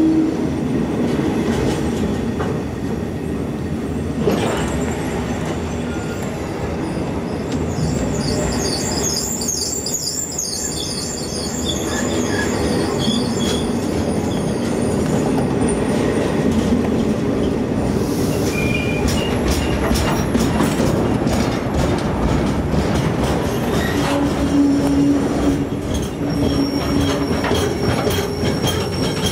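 Intermodal freight train of container wagons rolling past at close range, with a steady rumble of wheels on the rails. High-pitched wheel squeal comes and goes, strongest about a third of the way in and again near the end.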